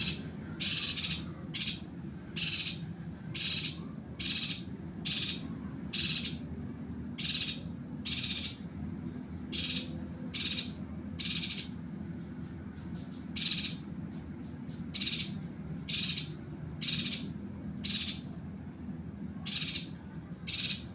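Yuhina giving a short harsh rasping call over and over, about once a second, over a steady low hum.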